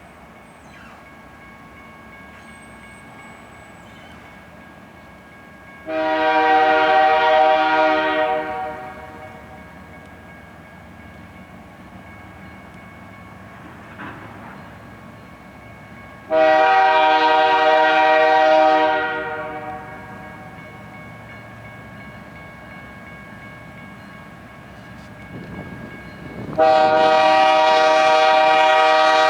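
Locomotive air horn sounding three long blasts about ten seconds apart, the third starting near the end and still going; a faint steady rumble lies beneath between the blasts.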